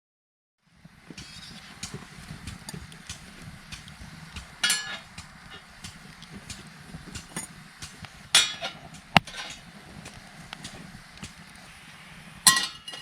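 Wood fire crackling with scattered sharp pops, and three louder ringing metallic clinks, about four seconds apart.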